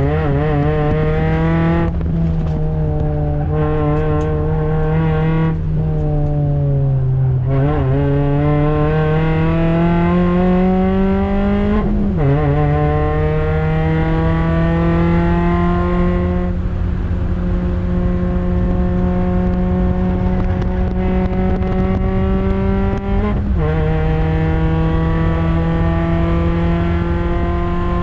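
Toyota Yaris NCP91 race car's 1.5-litre four-cylinder engine pulling hard through the revs. The pitch climbs steadily and drops sharply with upshifts, about twelve seconds in and again near the end, with a fall and recovery in the revs a few seconds before the first shift.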